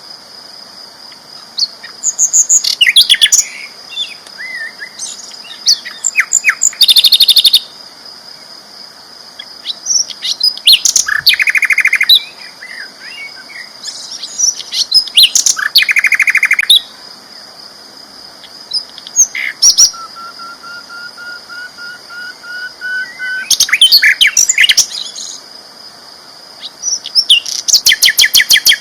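Sikatan londo flycatcher singing loudly: repeated bursts of rapid, high trills and sharp chirps, every few seconds, with softer twittering and a thin whistled note between them. A steady high whine runs underneath.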